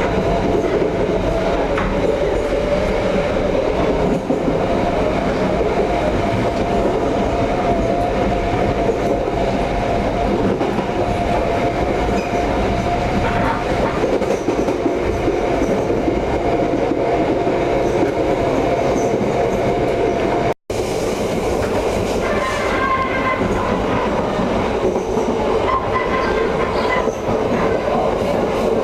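Passenger train running along the track, heard from on board: a steady rumble with a held whine. A brief cut about two-thirds of the way in breaks the sound, and after it the sound changes slightly.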